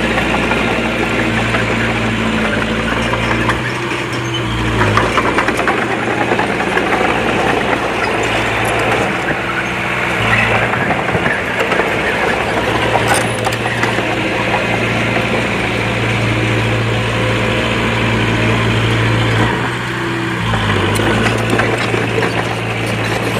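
Heavy diesel earthmoving machinery running steadily, its engine note shifting with load about four seconds in and again near the end, with scattered metallic clanks.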